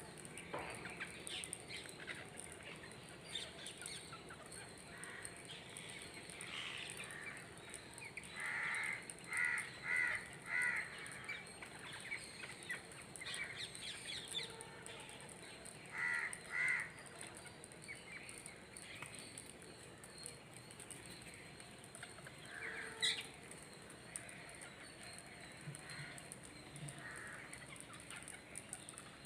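Birds calling faintly in short, repeated calls: a run of four about nine seconds in and a pair around sixteen seconds, with scattered softer calls over low background noise.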